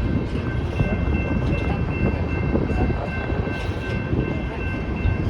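A BNSF coal train rolling past, a steady heavy rumble of rail cars on the track, with a few thin, steady high-pitched tones held above it.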